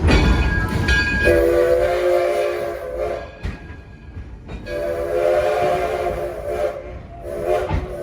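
Steam locomotive whistle sounding several notes at once in three long blasts, the third starting near the end, over the rumble of the moving train.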